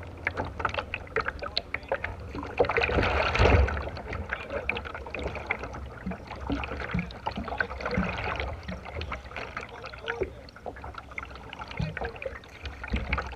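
A kayak being paddled: the paddle splashes in the water, with many small knocks and clicks over a low rumble. It is loudest a little after three seconds in.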